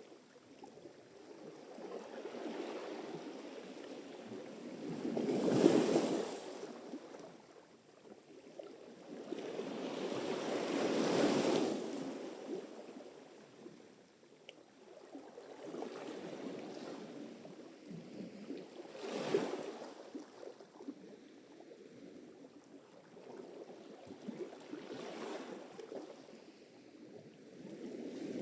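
Sea surf: waves break one after another every several seconds, each rising to a rushing hiss and then washing back. Quieter hiss lies between the breaks.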